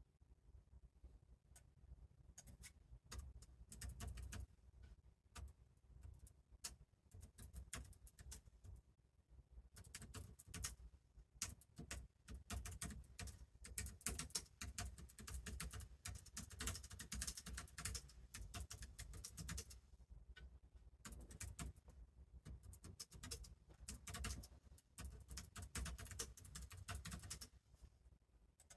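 Faint typing on a computer keyboard: irregular flurries of quick key clicks with short pauses between them.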